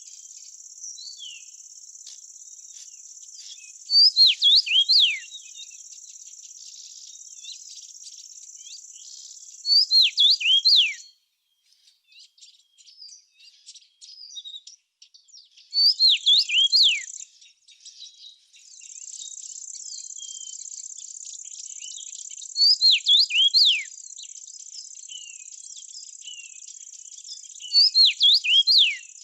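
A songbird repeats a short phrase of several steep, downward-slurred whistles about every six seconds, loud against a steady high-pitched insect trill, likely a cricket or bush-cricket. The trill breaks off for several seconds around the middle.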